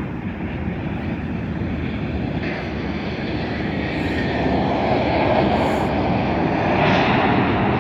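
Jet airliner engines roaring, growing louder about halfway through.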